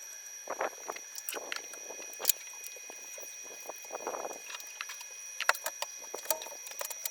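Scattered light taps, clicks and short scrapes of hand work on a truck cab's front panels, over a faint steady high whine.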